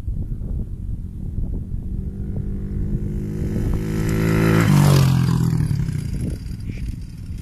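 110cc pit bike's single-cylinder four-stroke engine passing by: it grows louder, goes past about five seconds in with a drop in pitch, then fades away.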